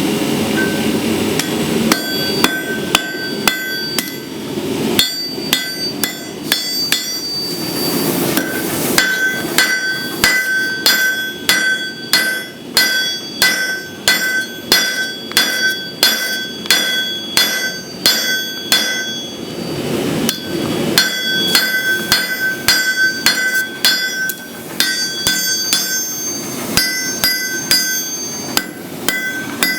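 Hand hammer striking hot steel on an anvil while forging a knife blade, in a steady run of about two blows a second, each blow leaving the anvil ringing. The striking stops briefly three times and then resumes.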